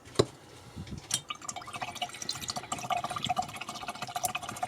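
Small splashing and clinking of water in a little pot, with a run of quick light ticks, typical of a paintbrush being swished clean in a rinse-water pot.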